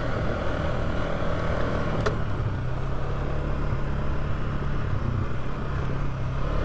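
Polaris ATV engine running at a steady pace on a dirt trail, with one brief click about two seconds in.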